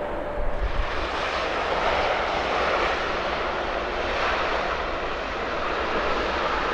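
Boeing 777 freighter's twin jet engines on landing approach: a steady, broad rush of jet noise that swells in about half a second in and holds.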